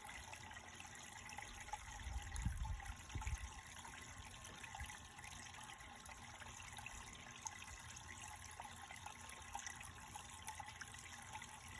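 Faint trickling and splashing of water in a small duck pond where ducklings are swimming. Brief low rumbles come about two and three seconds in.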